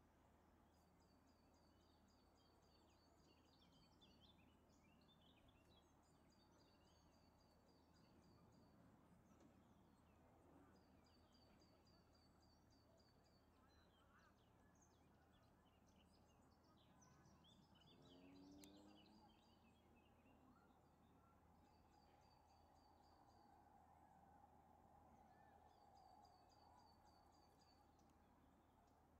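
Faint outdoor ambience in which a songbird repeats a short, quick trill of high ticking notes about every four to five seconds, six times. A low steady hum runs underneath, and a steady mid-pitched drone comes in about two-thirds of the way through.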